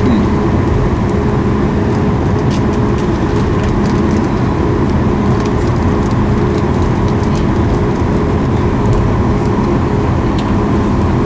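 Steady cabin noise inside a Boeing 737 MAX 8, its CFM LEAP-1B engines running: an even drone with a few steady humming tones and no change in pitch or level.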